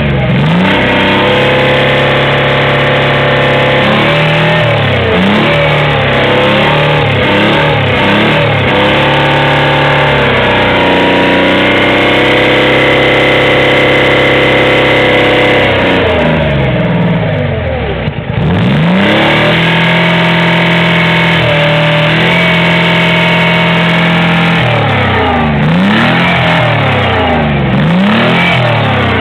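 Rolls-Royce K60 six-cylinder, twelve-piston opposed-piston supercharged two-stroke multi-fuel tank engine being revved hard: a series of quick blips, then revs held high for several seconds twice with a drop back toward idle between, and more blips near the end. It is being run up after its supercharger drive gear was replaced.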